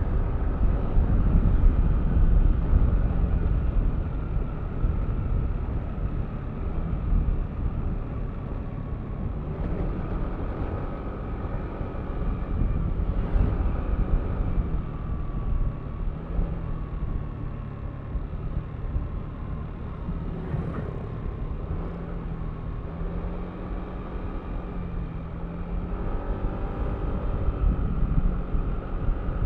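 Yamaha Aerox V3 scooter's 155 cc single-cylinder engine running under way, with wind and road rumble. The engine pitch rises and falls with the throttle, and it picks up and gets louder near the end. The low rumble is heaviest in the first few seconds.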